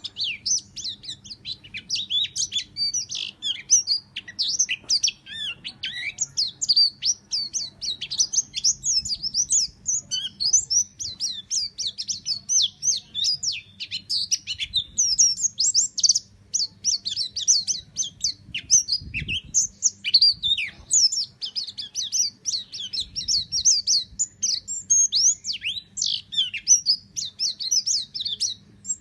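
A pleci (white-eye) singing a rapid, unbroken stream of short, high chirps and trills, the fast 'nembak' style of song.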